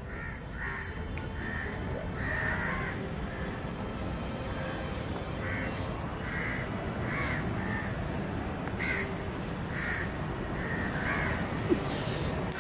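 A bird calling over and over in short calls, about a dozen of them at irregular intervals, over a steady background hiss. A single sharp click sounds near the end.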